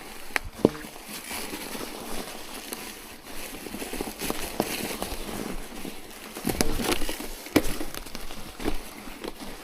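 Irregular crunching and crackling of fresh snow with scattered sharp clicks, loudest about seven seconds in.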